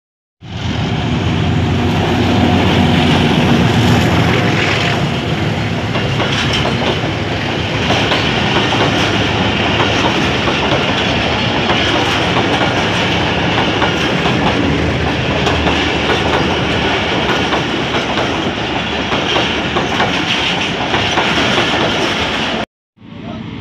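Pakistan Railways diesel-hauled express train passing close by at speed. The locomotive's diesel engine runs under the noise for the first few seconds, then the coaches' wheels rumble and clatter steadily over the rail joints. The sound cuts off abruptly just before the end.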